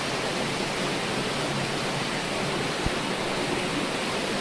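Running water rushing steadily inside a cave, an even hiss with no let-up.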